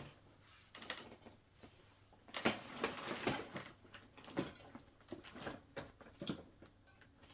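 Irregular light clicks and taps of small metal parts as the e-bike's front wheel axle and its nuts are worked into the fork dropouts, busiest about two and a half to three and a half seconds in.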